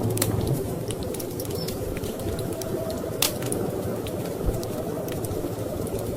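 Wood fire crackling in a fireplace, with scattered sharp pops and one louder pop about three seconds in, over a steady low rush of storm wind.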